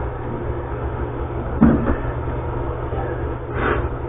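Steady low rumble with a single sharp click about one and a half seconds in and a short scrape near the end, as a small part is pushed into place on a toilet.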